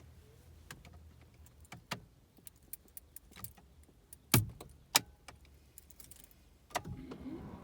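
Car keys jangling and clicking in a BMW E46's ignition, with two loud knocks in the middle. A low hum starts near the end.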